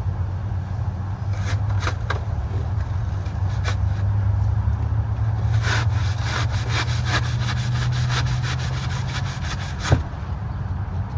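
A blade sawing by hand through fiberglass duct board to cut a 14-inch round opening. A few scattered strokes are followed, about halfway through, by a quick run of rasping back-and-forth strokes, several a second, and then a single sharp tick. A steady low hum runs underneath.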